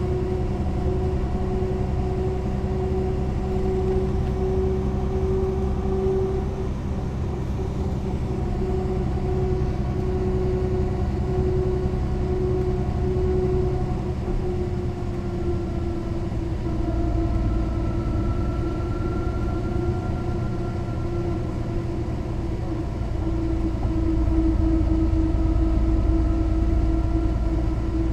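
Mercedes-Benz O 405 NÜ bus on the move, its diesel engine and drivetrain humming steadily with a whine over it. The pitch sags a little about halfway through, and the sound grows louder and rumbles more in the last few seconds as the bus pulls harder.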